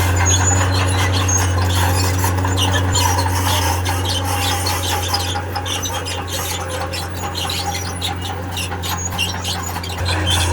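Crawler tracks of a tracked earthmoving machine squealing in short high bursts over a steady low diesel engine drone.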